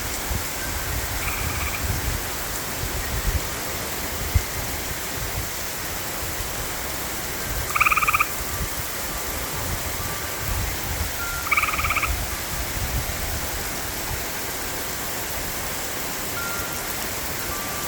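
Steady hiss of heavy rain with a frog calling twice, about eight and twelve seconds in; each call is a short pulsed trill. Low rumbles come and go under the rain.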